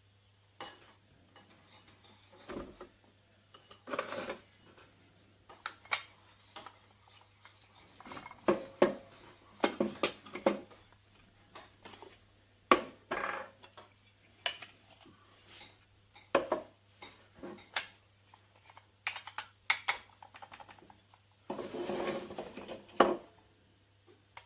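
Hard objects being handled: scattered clicks, knocks and light clatter, with a longer stretch of rubbing or rustling near the end.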